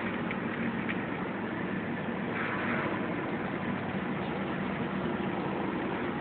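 1994 Chevy Silverado pickup's engine running, heard from inside the cab as a steady hum. The low part of the hum shifts slightly about four seconds in.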